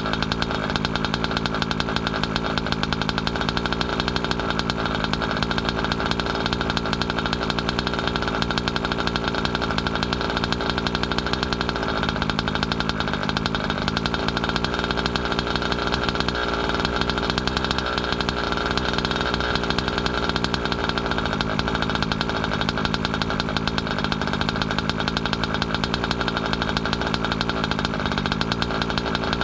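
A new ESP two-stroke RC car engine running steadily at an even speed during a break-in heat cycle.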